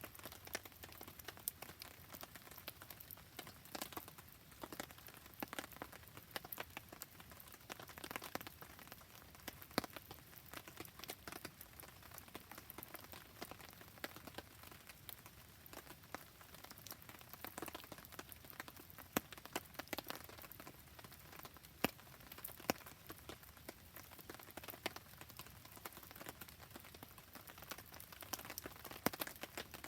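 Steady rain falling, with a campfire crackling and popping in irregular sharp snaps.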